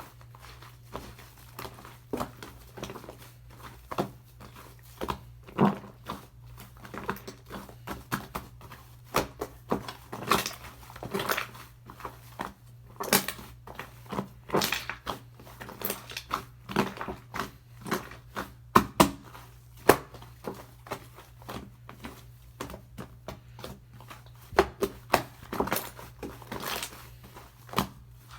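Fluffy shaving-foam slime being squeezed and pressed by hand, giving irregular squishy pops and crackles several times a second.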